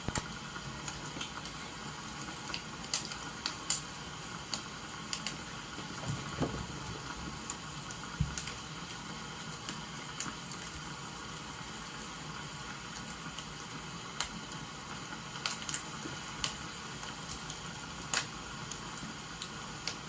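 Firewood crackling in a fire, with irregular sharp pops, over a steady hiss of falling rain.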